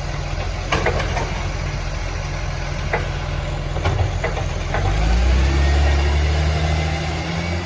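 Garbage truck's diesel engine running with a few sharp metallic knocks, then revving up and getting louder about five seconds in.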